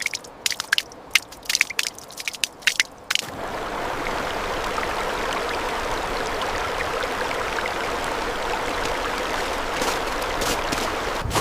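A quick run of sharp crunching clicks for about three seconds, then a steady rushing noise like running water that starts suddenly and holds even.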